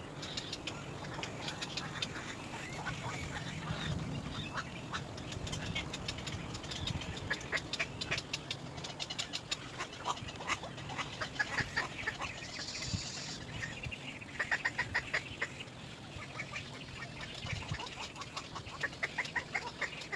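Little egret chick calling for its parent: clusters of short, harsh calls repeated rapidly, in bouts through the whole stretch.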